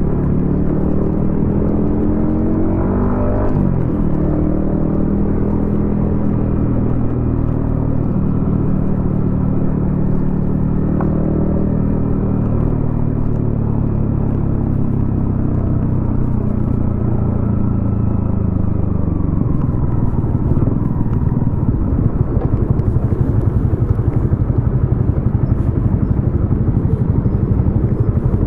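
Yamaha XSR155's single-cylinder engine running through a DIY exhaust while riding in traffic. Its note rises and falls about three seconds in, holds fairly steady, then from about twenty seconds gives way to a louder, rougher rumble without a clear pitch.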